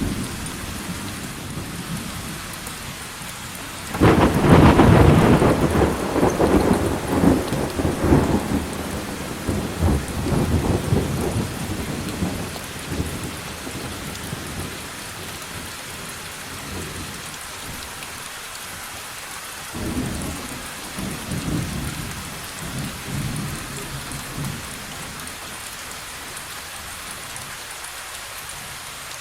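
Steady rain with a thunderclap about four seconds in that rolls and fades over several seconds, then a weaker roll of thunder about twenty seconds in.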